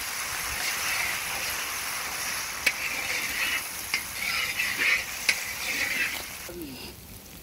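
Onions and tomatoes sizzling in a large iron kadai while a metal spatula stirs and scrapes them against the pan, with a couple of sharp clinks of metal on iron. The sizzle drops away near the end.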